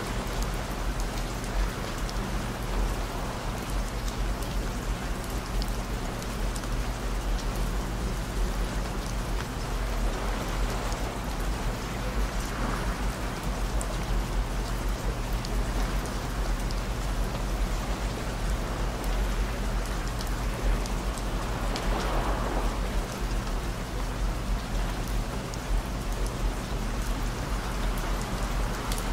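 Rain falling steadily, with scattered drop ticks, over a bed of steady low droning tones.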